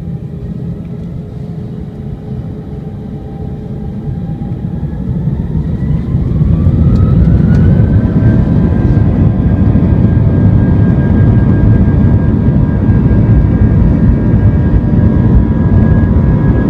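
Airbus A320-232's IAE V2500 turbofan engines heard from inside the cabin, spooling up to takeoff thrust. A few seconds in, a whine rises in pitch over about three seconds while the sound grows loud. It then holds as a steady loud whine over heavy rumble.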